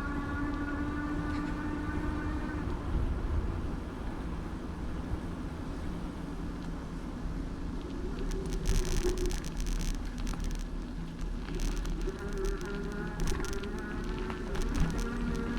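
Riding noise picked up by a handlebar-mounted camera on a moving bicycle: a low rumble of road and wind. A steady buzzing hum runs for the first couple of seconds and returns after about twelve seconds, with bursts of rattling about eight to ten seconds in.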